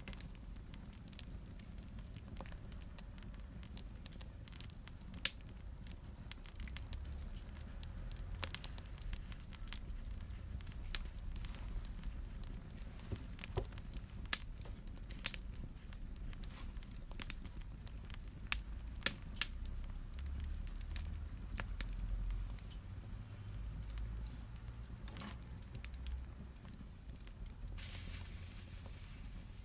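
Wood fire crackling in a fireplace: irregular small pops and snaps over the low rumble of the flames, with a few louder pops scattered through, and a brief hiss near the end.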